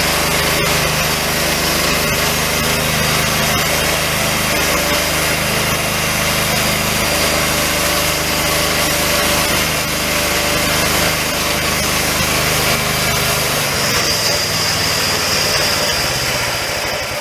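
Homemade portable bandsaw sawmill running steadily, its small engine driving the blade as it cuts through a long leaf pine log. Near the end the engine's low hum drops away and a high whine comes up.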